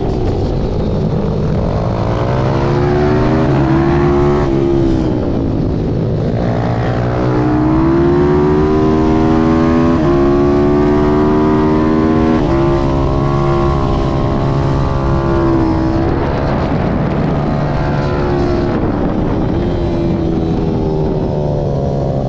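Zongshen 190 cc single-cylinder four-stroke engine of a racing pit bike under hard use. The revs climb in stages as it shifts up through the gears, then fall away as the throttle closes, several times over.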